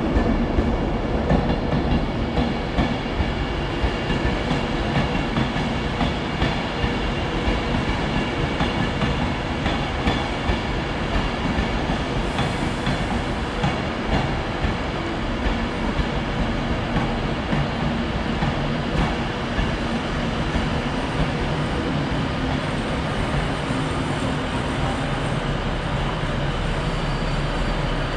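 Avanti West Coast Class 390 Pendolino electric train rolling slowly past along the platform, a steady running noise with a faint steady whine and light, fairly regular clicks of wheels over rail joints.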